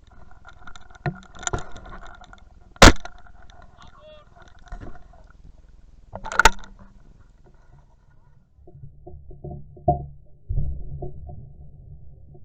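Two shotgun shots, about three and a half seconds apart, the first the louder. Low rustling and handling noise follows.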